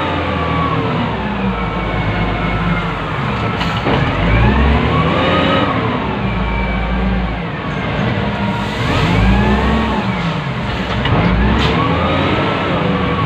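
Wheel loader's diesel engine heard from inside the operator's cab, revving up and dropping back again and again as the machine works, its pitch rising and falling every couple of seconds.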